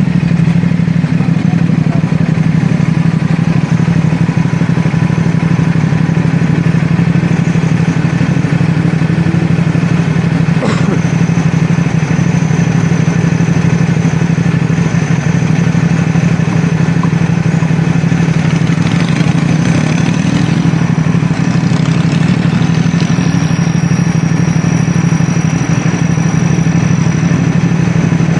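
CFMoto 450SR S parallel-twin motorcycle engine running at a steady, unchanging pitch, with one sharp click about eleven seconds in.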